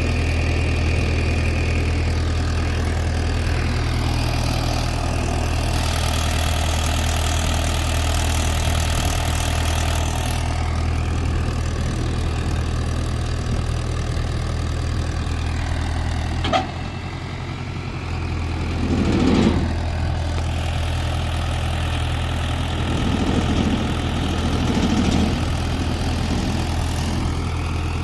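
Mahindra 475 DI tractor's four-cylinder diesel engine running steadily. A sharp click comes a little past halfway, then a brief dip in level and a louder surge a few seconds later.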